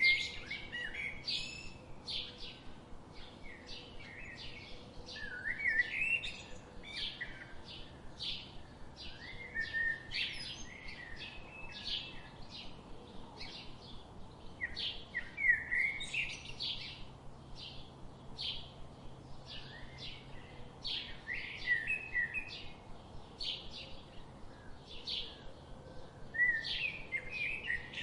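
Songbirds chirping and singing without a break: a dense stream of short, high chirps, with louder warbled song phrases every few seconds.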